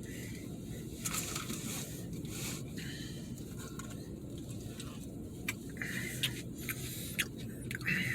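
Eating from a takeout container: a utensil scraping and tapping at the food, with scattered small clicks and chewing, over a steady low background rumble.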